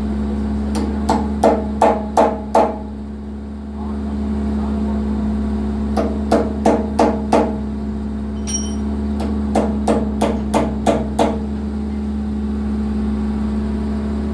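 Hammer blows on metal, ringing sharply, in three bursts of five to seven strikes about three a second. A steady low hum runs underneath.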